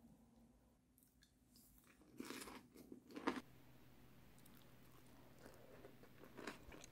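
A person biting and chewing a steamed cabbage leaf wrap, crisp crunching in two short bursts about two and three seconds in.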